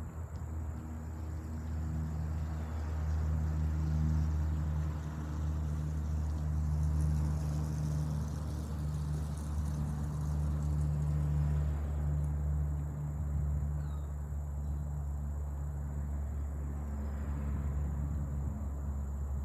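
The four Allison T56 turboprop engines of a Lockheed CP-140 Aurora, heard as a steady, deep propeller drone from overhead, a little quieter in the second half.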